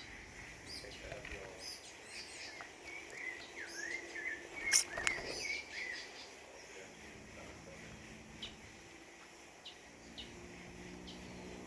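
Small songbirds calling: a quick run of short chirps and gliding whistles, the loudest a sharp call about five seconds in, then only a few scattered faint chirps over a steady ambient background.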